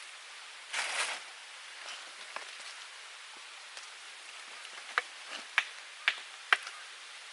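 Small wood fire in a camp wood stove: a brief rustle about a second in, then four sharp snaps of dry wood about half a second apart near the end, over a steady faint hiss.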